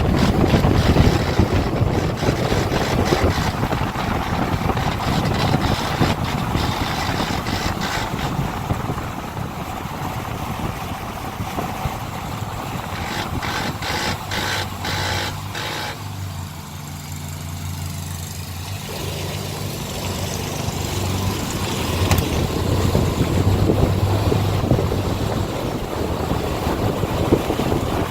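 A 2004 GMC Yukon XL on the move: steady rumble and road noise with intermittent scraping from the rear end. The noise comes from the parking-brake shoe rubbing inside the rear drum, not from the differential or a bearing. The sound eases off briefly about two-thirds of the way through, then builds again.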